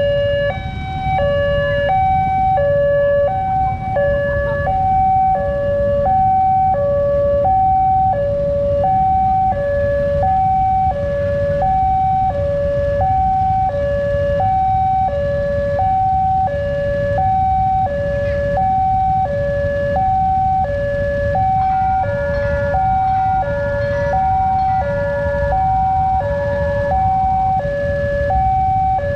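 Railway level-crossing warning alarm sounding a repeating two-tone signal, a higher and a lower note alternating about every 0.7 s, warning that a train is approaching and the barriers are closing. A steady low rumble of road traffic lies underneath.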